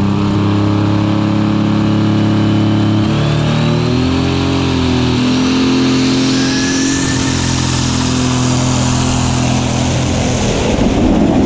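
Superstock pulling tractor's turbocharged diesel engine running hard, with a high turbo whine rising over several seconds. The engine note steps up about three seconds in, and a louder rush of noise comes near the end.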